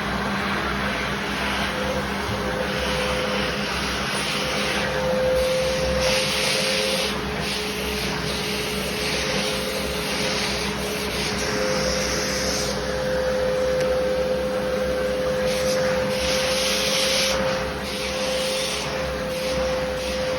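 Vacuum cleaner running with a steady motor hum, its rushing air hiss swelling and fading again and again.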